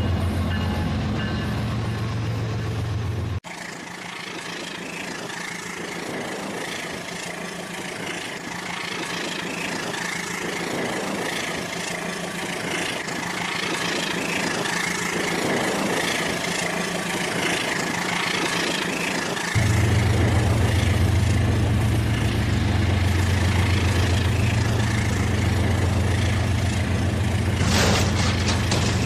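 Rail King battery-powered toy train running on its track: a steady low motor hum with a rattle of wheels and cars. The hum cuts off abruptly about three seconds in, leaving only the quieter rattle, and comes back about two-thirds of the way through.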